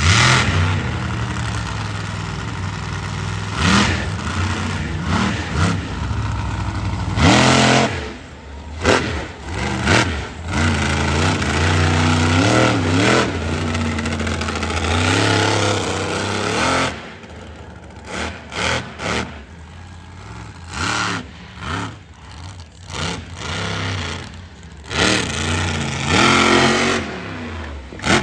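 Monster truck's supercharged V8 revving hard, its pitch climbing and dropping as the throttle is worked, with several sharp bangs. The engine is loud and sustained for the first two-thirds, then comes in short, choppy blips with gaps before rising again near the end.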